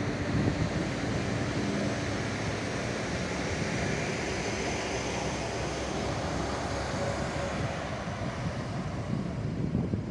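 SA139 diesel railcar running, its engine hum and wheel-and-rail hiss mixed with wind buffeting the microphone.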